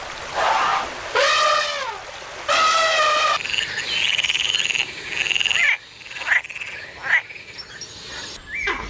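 Animal calls: three drawn-out, pitched cries that rise and fall, then, after an abrupt change about three seconds in, a high trilling call and scattered short chirps.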